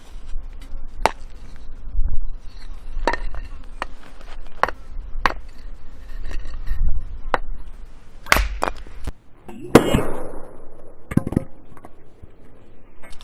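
A hand-swung chopping blade striking firewood, about ten sharp separate blows at an irregular pace, with one louder, longer crash about ten seconds in.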